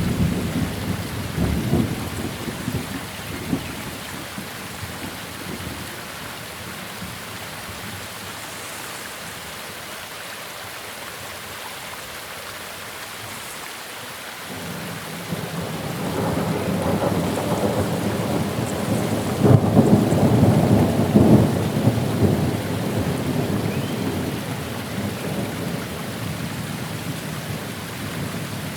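Steady rain falling through a thunderstorm. A roll of thunder dies away in the first few seconds, and another builds from about halfway, is loudest around two-thirds through, then slowly fades.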